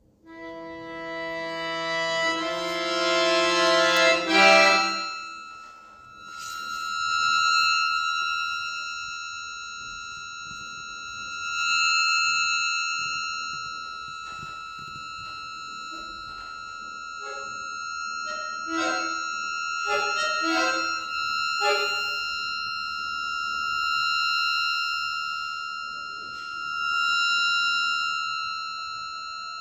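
Solo accordion (bayan) playing contemporary concert music: a dense chord swells loudly over the first four seconds and breaks off, then a single high note is held on for the rest of the time while quieter low notes sound now and then beneath it.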